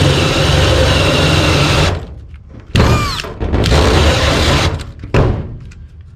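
Cordless drill boring through sheet-metal ductwork with a unibit step bit: it runs steadily for about two seconds, stops, then starts again in three short bursts, one with a brief squeal of the bit on the metal. The stop-start running comes as the drill's battery is dying.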